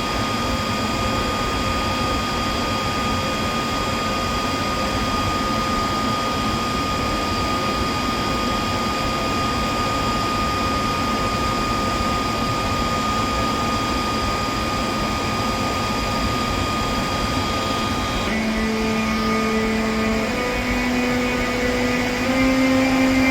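ÖBB Taurus class 1116 electric locomotive at the head of a freight train. Its traction equipment gives a steady high whine over a low hum. About 18 seconds in, its converters start the rising step-by-step musical scale typical of a Taurus accelerating from low speed.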